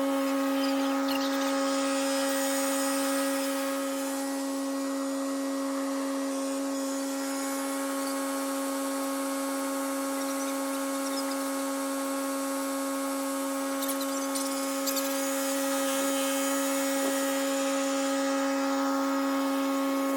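A motor running steadily at one unchanging pitch, a constant whine with a strong hum beneath it.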